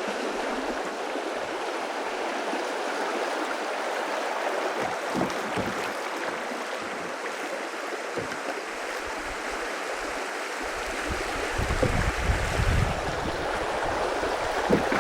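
River water rushing, a steady hiss. From about eleven seconds in, low rumbling bumps join it on the microphone.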